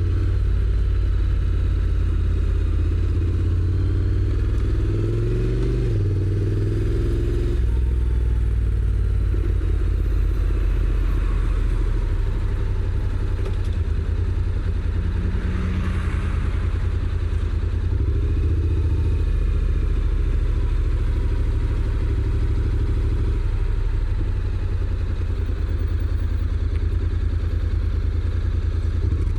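Honda NC750X's 745 cc parallel-twin engine, through its stock exhaust, running at low revs under way. The engine note rises briefly around five to seven seconds in as it pulls. A short hiss comes about halfway through.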